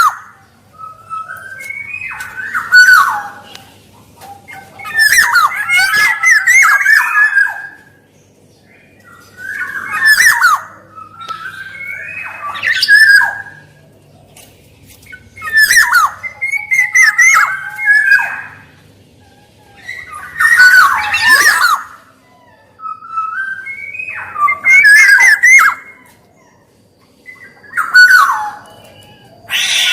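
Black-naped oriole (kepodang) calling in repeated bursts, one every three to five seconds. Each burst mixes gliding whistled notes with harsh, rasping notes.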